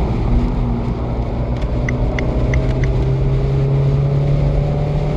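Abarth 595C's turbocharged 1.4-litre four-cylinder running through a Record Monza exhaust, heard from inside the moving car at motorway speed. The engine note rises slowly and steadily as the car pulls harder, over road and wind noise.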